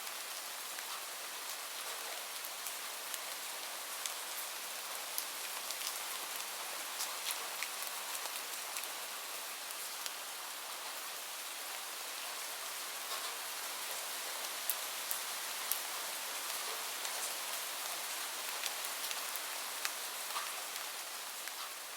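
Steady rain falling: an even hiss with scattered sharper ticks of individual drops, beginning to fade near the end.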